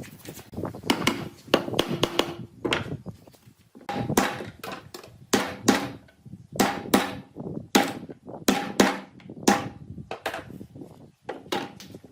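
Hammer blows, struck one or two a second in short runs with brief pauses, each blow with a short ringing tone.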